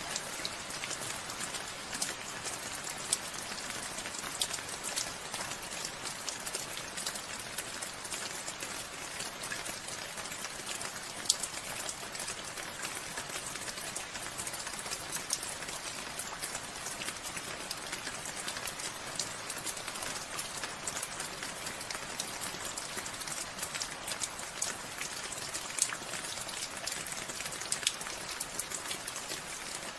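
Steady rain falling, an even hiss with many separate drops ticking close by; a couple of louder drops stand out, near the middle and near the end.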